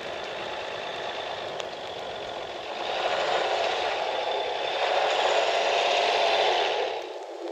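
A truck driving through deep snow: the engine runs under the steady noise of the tyres in the snow, getting louder about three seconds in, and the sound cuts off suddenly near the end.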